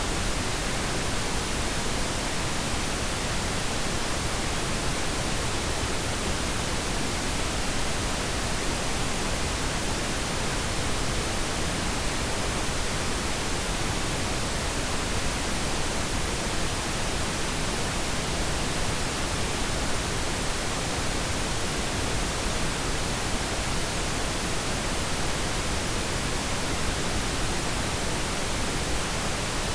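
Steady, even pink noise: a smooth hiss spread across all pitches, softer and deeper than white noise, with no change or break.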